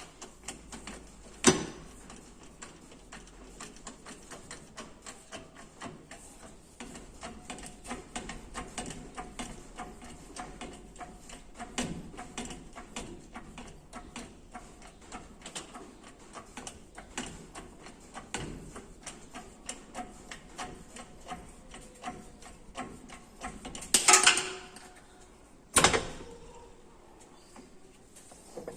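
Hand tools working on a Ford Ranger's front suspension: a long run of rapid metallic clicking, with a sharp knock about a second and a half in and two loud metal clanks near the end.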